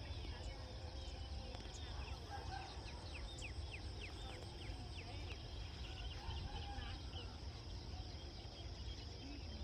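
Rural outdoor ambience: a bird calls in a quick run of falling chirps a few seconds in, with smaller calls scattered around it, over a steady insect hiss and a low rumble.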